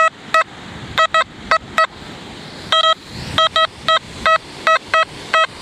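XP Deus metal detector giving a run of short, clipped beeps at one steady pitch, unevenly spaced as the coil sweeps back and forth over a target. The clipped signal is the response to a bottle cap.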